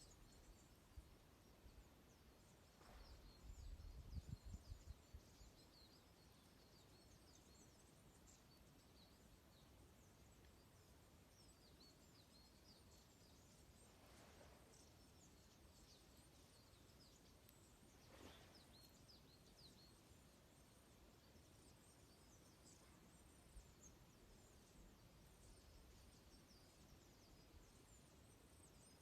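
Faint, busy twittering of a flock of small birds, many short high chirps overlapping. About three to five seconds in there is a low rumble.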